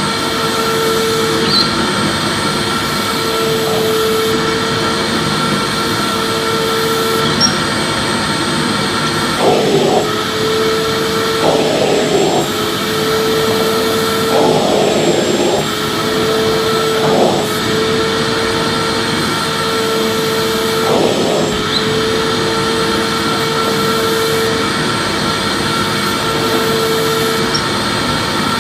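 Vacuum cleaner running steadily with a constant motor hum and airflow noise. It has a few short changes in its note between about ten and twenty-two seconds in.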